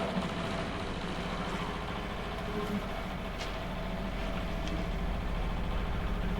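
Rebuilt Volvo Penta MD6A two-cylinder marine diesel running steadily, a low even drone, with the boat under way.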